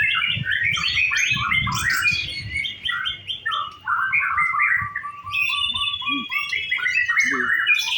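White-rumped shama song: a fast, unbroken stream of varied whistled phrases. Partway through it repeats one low note in a quick string, and near the end a higher note in another quick string.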